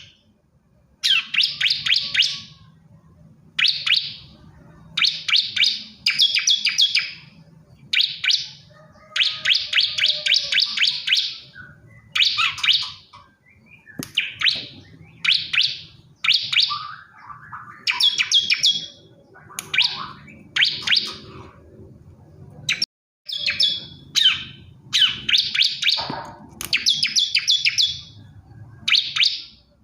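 A male bar-winged prinia (ciblek kristal) singing: short, rapid, high chattering phrases repeated one after another with brief pauses. This is the male's call to a female.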